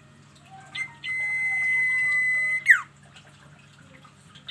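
Sirtu songbird singing its drawn-out song. A short note comes about a second in, then a long steady high whistle is held for about a second and a half and ends in a sharp downward slur.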